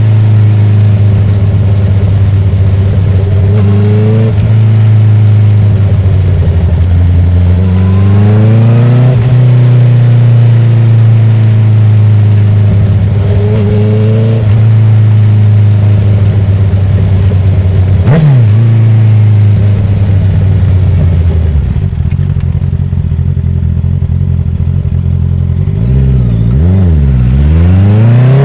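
2019 Honda CB650R's inline-four engine heard at speed through an Akrapovic titanium full exhaust with the dB killer removed: a loud, steady high-revving drone. Its pitch climbs and drops sharply a few times at quickshifted gear changes, and it swings quickly up and down near the end.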